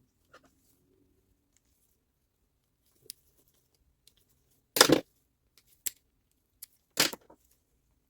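Scattered clicks and knocks of hard parts being handled and set down, with two louder clunks, one about halfway and one near the end.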